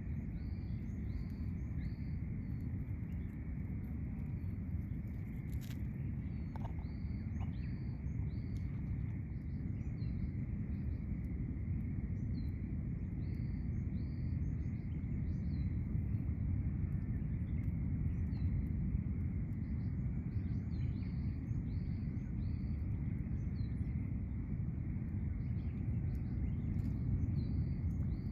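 Outdoor ambience: a steady low rumble with small birds chirping in the background, short high chirps repeated every second or so.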